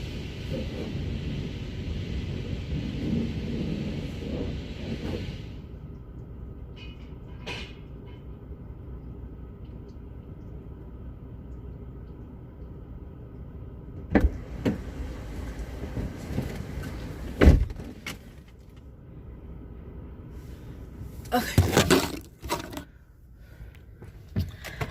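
Car noises: a steady rushing sound cuts off suddenly about five seconds in, leaving a low hum. Then come a few knocks, a loud thump like a car door shutting about halfway through, and a brief clatter near the end.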